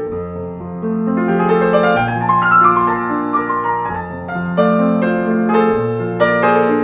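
Slow, gentle solo piano music: sustained bass notes under a melody, with a rising run of notes in the middle.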